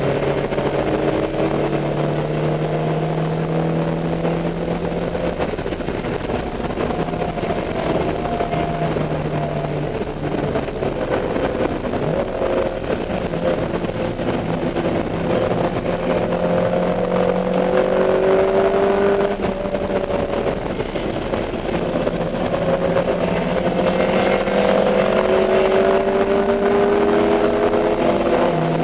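Dodge Neon race car's four-cylinder engine running hard on track, its pitch repeatedly climbing under acceleration and dropping as it lifts off or shifts, with a sharp drop near the end.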